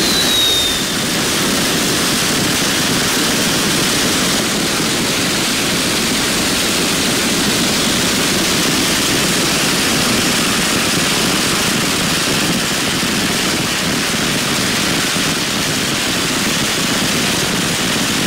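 A long string of firecrackers going off in a dense, continuous crackle, loud and unbroken.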